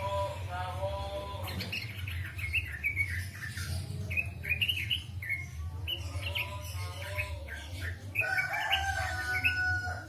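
Songbird singing: a busy run of quick chirps and falling whistled notes, with a few longer held whistles, over a steady low hum.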